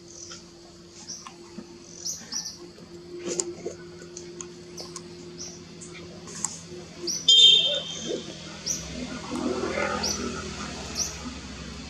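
Small birds chirping in short, high, quick notes repeated every second or so, with one louder call about seven seconds in, over a low steady hum.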